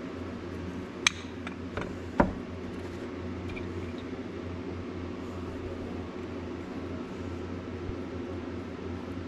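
A steady low mechanical hum, like a running fan. A few light clicks and two sharper knocks, about one and two seconds in, come from hard objects being handled.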